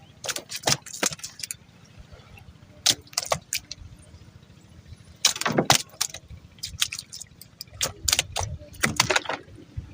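Irregular clusters of sharp clattering knocks and rattles, coming in quick runs about every one to two seconds over a low background rumble.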